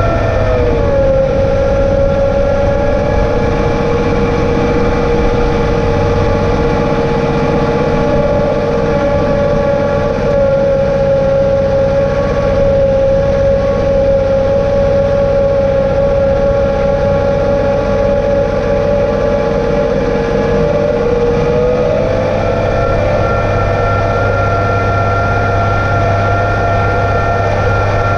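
John Deere 2032R compact tractor's three-cylinder diesel running steadily. Its pitch drops about a second in and climbs back up near the end.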